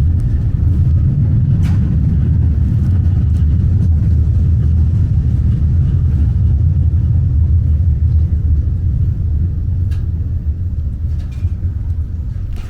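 Subway train running with a steady low rumble and a few faint clicks.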